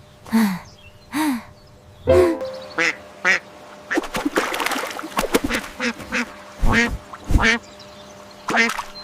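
Ducks quacking, a quick irregular run of short quacks.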